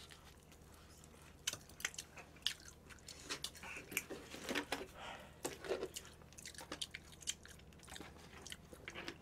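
Close-miked chewing and biting of spicy sauced (yangnyeom) chicken: irregular wet mouth clicks and smacks, several a second, starting about a second and a half in.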